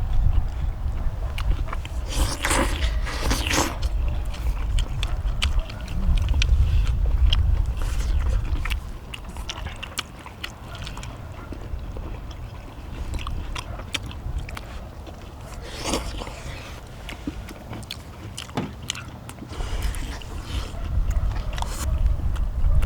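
People biting and chewing food, with scattered short clicks. A low wind rumble on the microphone comes and goes: strong in the first third, fading in the middle and returning near the end.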